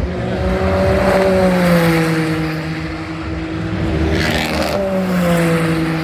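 GT race car engines running at speed on track, two in turn, each engine note dropping in pitch as it goes by.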